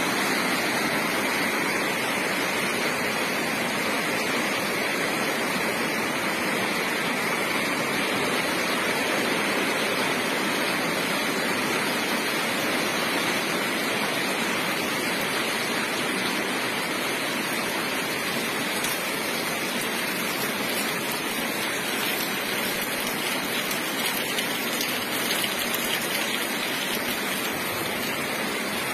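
Heavy rain pouring steadily, a continuous even hiss of water with no let-up.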